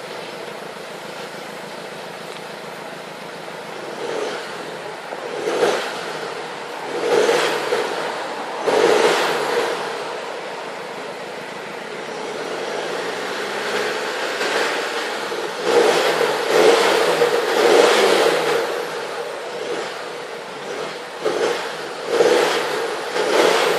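Mercedes-Benz C220 CDI four-cylinder diesel running through an aftermarket dual exhaust: idling at first, then revved in a series of short blips, with a longer stretch of held higher revs in the middle and a few more quick blips near the end.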